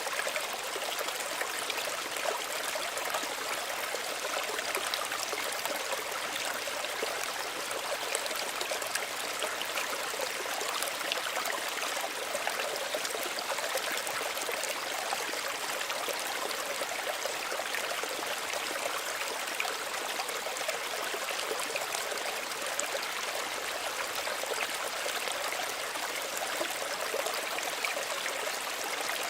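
Small stream of running water trickling and babbling steadily over stones.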